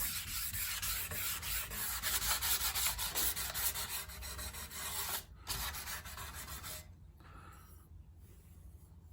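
1000-grit sandpaper wet sanding a part by hand with water, in quick back-and-forth rubbing strokes to smooth it for primer. The rubbing breaks off briefly a little after five seconds and stops about seven seconds in.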